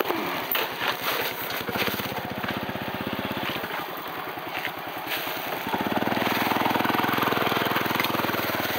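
Small motorcycle engine running with a rapid, even putter, then revving up and holding a higher, louder note from about six seconds in.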